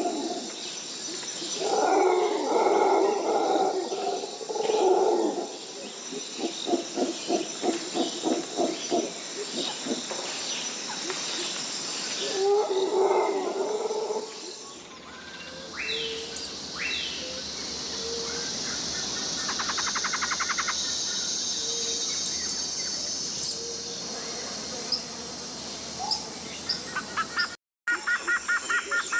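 Tropical rainforest ambience. First come loud, low animal calls repeated every second or two, some in fast pulsed series. About halfway through it switches to a steady high insect drone with short bird chirps and a brief trill, cut by a short dropout near the end.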